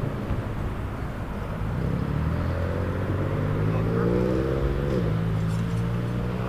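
Car engine accelerating, its pitch climbing for a few seconds, then dropping suddenly about five seconds in as it shifts up a gear, then running steadily.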